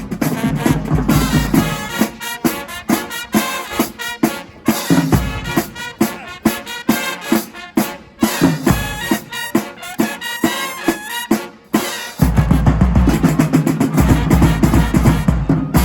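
High school marching band playing, with the drumline hitting rapid snare and bass drum patterns. About twelve seconds in, the full band comes in louder and heavier in the low end.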